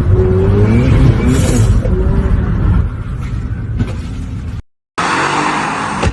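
Car engine revving hard, its pitch rising and falling, then running quieter. A brief break in the sound near the end gives way to another car engine with a rushing noise.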